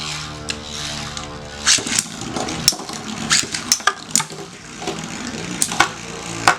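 Metal Fight Beyblade spinning tops whirring with a steady hum in a stadium. About two seconds in they start clashing, with many sharp, irregular clicks and knocks of metal and plastic colliding.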